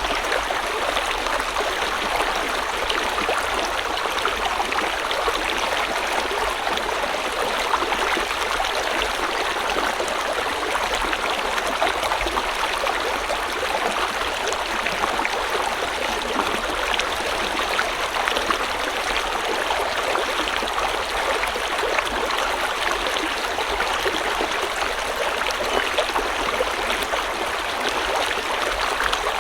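River water flowing over stones, a steady rushing and babbling with small splashes.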